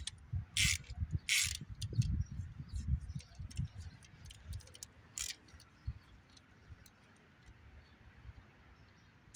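Socket ratchet wrench clicking in short strokes with light metal clinks and dull knocks, as nuts are worked loose on a car engine. The strokes are busiest in the first few seconds, with one more a little after halfway, then only faint ticks.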